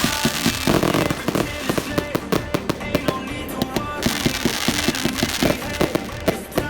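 Fireworks going off in rapid, irregular bangs and crackles, mixed with music that has singing.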